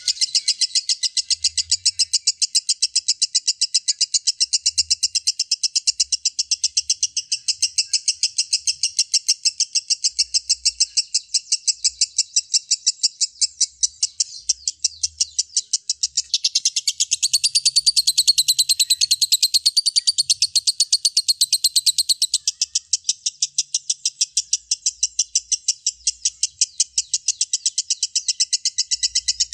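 Lovebird in a long, unbroken ngekek: rapid, evenly spaced high chattering notes without a pause, turning higher and brighter for several seconds in the middle.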